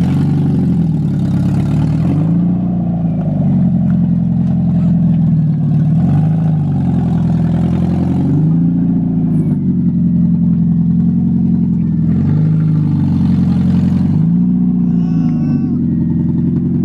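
Mazda Miata four-cylinder engine running on open headers, with no exhaust behind them, loud and unmuffled. It idles steadily and swells briefly in pitch about five times as the throttle is lightly touched.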